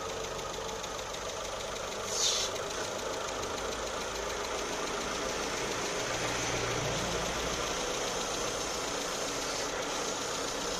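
Mitsubishi Lancer IX engine idling steadily while the steering wheel is turned from side to side to bleed the freshly refilled power steering system. A short hiss about two seconds in, and a low tone swells briefly a little past halfway.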